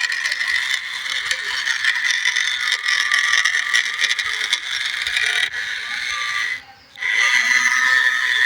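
Small electric drive motor and gearbox of a remote-control New Holland toy tractor whining steadily as it drives and climbs a ramp. The whine cuts out for a moment about two-thirds of the way in, then starts again.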